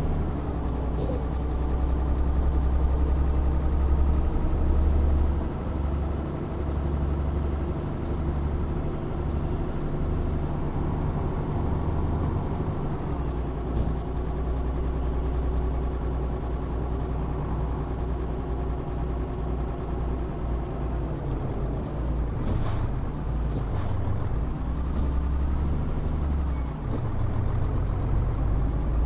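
Tanker truck's engine running on the road, its pitch climbing and dropping back several times, with a few short air hisses from the truck's air system.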